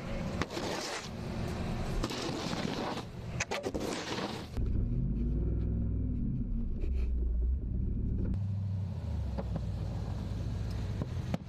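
A motor vehicle's engine running, its pitch rising and then falling a little past the middle, after a few seconds of broad rushing noise with a few sharp knocks.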